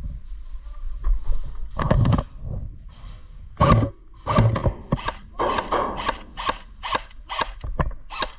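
Footsteps of a person running over rough ground, with scuffs and scrapes at first and then a steady rhythm of about three steps a second.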